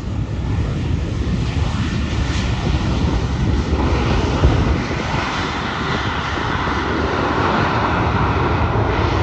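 Airliner's jet engines, a loud rumble and hiss that builds over the first second and then holds steady as the plane goes by.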